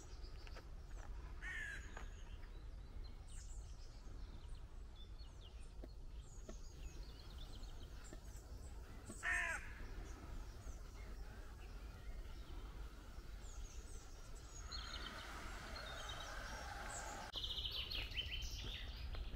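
Faint outdoor ambience of birds calling over a low steady rumble, with one louder falling call about nine seconds in.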